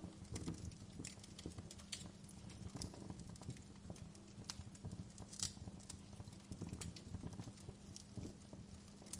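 Wood fire crackling: irregular sharp pops and snaps, a few louder than the rest, over a dense low rumble of flames, with a steady low hum underneath.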